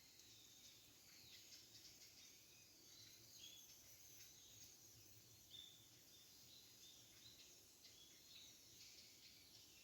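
Faint wood campfire crackling: a steady scatter of small, quick crackles and pops, with a few short high chirps mixed in.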